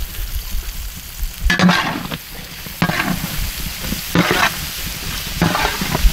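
Chicken and vegetables sizzling in hot oil in a large open vessel while a ladle stirs and scrapes them, with four louder scraping strokes spaced more than a second apart over a steady sizzle.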